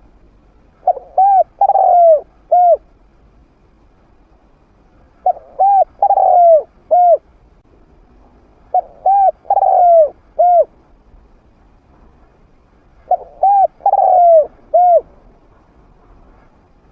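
Spotted dove cooing: a trained male's medium-pitched call phrase of four or five notes, repeated four times about every four seconds, played as a decoy to lure wild doves.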